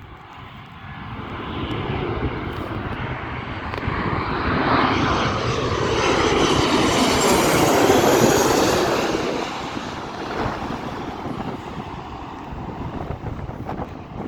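Boeing 737 jet airliner on landing approach flying past: its engine noise swells to a peak about eight seconds in, then fades away, with wind on the microphone.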